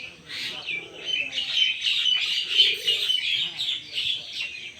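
A dawn chorus of many small birds chirping and twittering densely, with a low dove-like coo twice, about a second in and near the middle.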